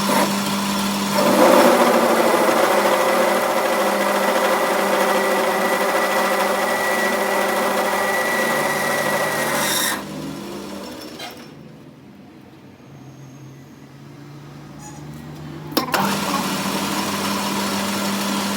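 An electric workshop machine runs with a steady whine. It stops about ten seconds in and starts up again about six seconds later.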